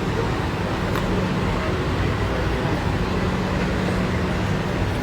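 Vehicle engine running steadily at idle, a low, even hum under a wash of background noise.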